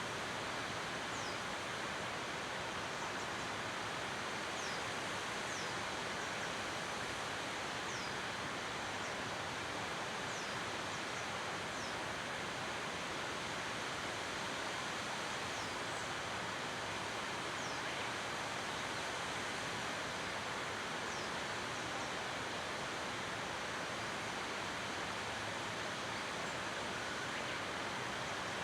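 Waterfall rushing steadily, with short, high falling chirps of a small bird now and then, more of them in the first half.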